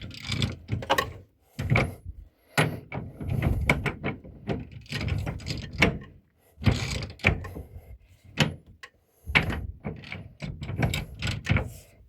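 Hand ratchet wrench cranking bolts tight in repeated, uneven strokes, with brief pauses between them.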